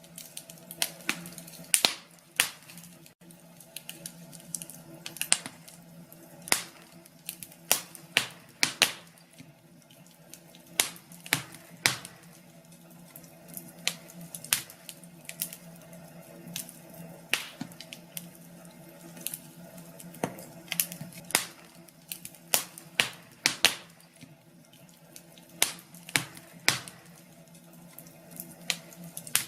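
Wood fire in a fireplace crackling, with irregular sharp pops and snaps, at times several a second, over a low steady hum.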